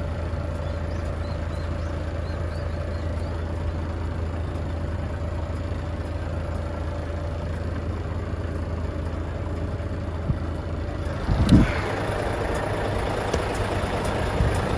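Heavy truck engine idling steadily. About eleven seconds in there is a loud knock, and the rest is noisier, with more clatter over the idle.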